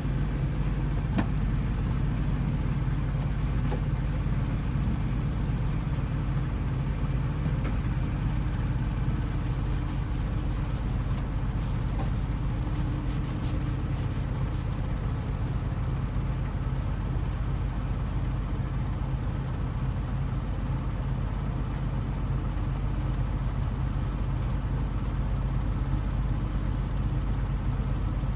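Hoover DXOA610AHFN-80 front-loading washing machine running, a steady, unbroken low hum from its motor and drum.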